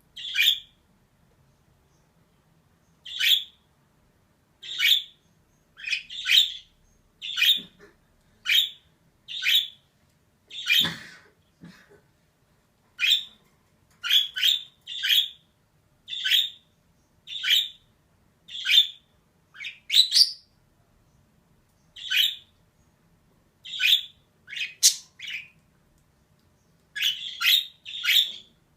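Female budgerigar giving short, sharp chirping calls one after another, about one a second, with short pauses between runs.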